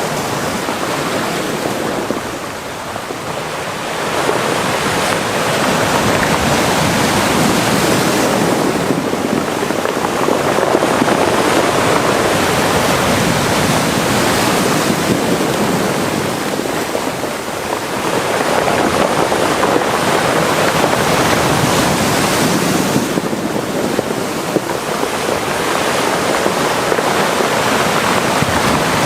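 Mediterranean sea waves washing into a cove, a continuous rush of surf that swells and eases in slow surges, with lulls about three seconds in and again past the halfway point.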